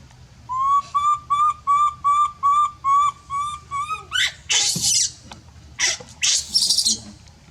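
Baby monkey calling: a run of about ten short, high, piping cries at roughly three a second, then, from about four seconds in, several harsh, shrill screeches.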